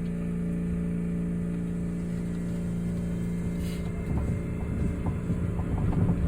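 Osaka Metro New Tram rubber-tyred automated guideway car heard from inside: a steady electrical hum, then from about four seconds in a rougher rumble with many small clicks that grows louder.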